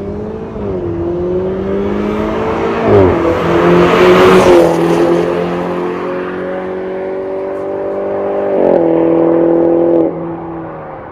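BMW 120i's B48 turbocharged four-cylinder engine through an MS-R valved cat-back exhaust, accelerating. The note climbs in pitch and drops sharply at a gear change about three seconds in, peaks loudest around four seconds, then runs steadier. It gets louder again before the throttle is lifted about ten seconds in and the sound falls away.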